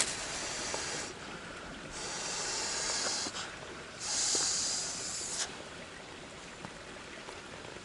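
Three bursts of breathy hissing, each lasting about a second, the third the loudest.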